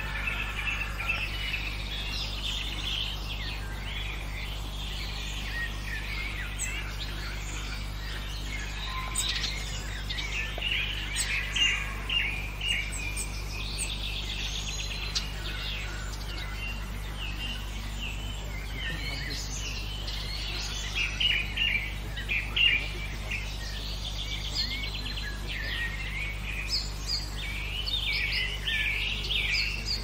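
Several songbirds singing and calling at once, a busy overlapping chorus of chirps and trills, with a steady low hum underneath.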